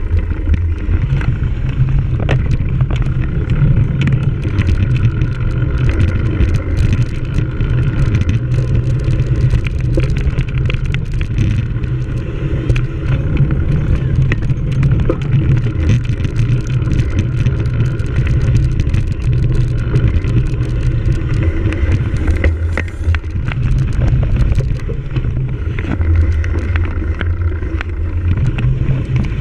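Cyclocross bicycle ridden at race pace over rough ground, its frame and parts rattling and clicking continually. Wind buffets the microphone with a heavy rumble that eases briefly about 23 and 28 seconds in.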